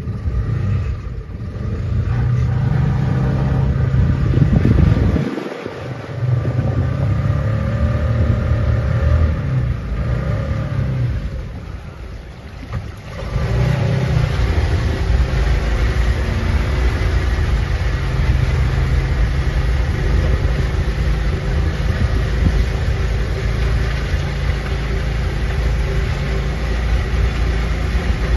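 A boat's motor running steadily with a low rumble and hum, dropping briefly about five seconds in and again around twelve seconds before picking back up.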